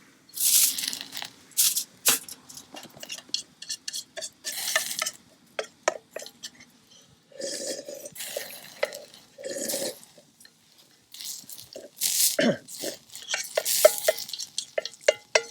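Eating utensils clinking and scraping against a metal cooking pot: irregular sharp clicks mixed with short hissing scrapes.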